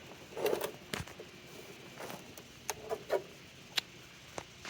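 Scattered plastic clicks and knocks from handling a toy dog-ball blaster, about seven short separate sounds, the sharpest about a second in.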